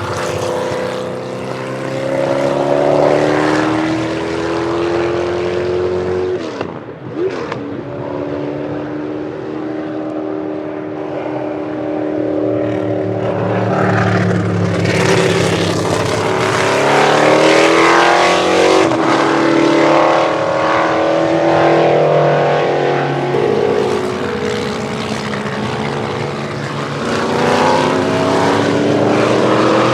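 Vintage Indy race cars' engines accelerating hard out of a corner, one car after another, their pitch rising as they pull away with overlapping engine notes.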